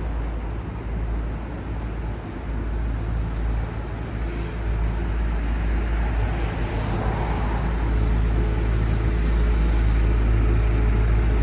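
City street traffic: the steady low rumble of vehicle engines and tyres, growing gradually louder toward the end as a vehicle draws near.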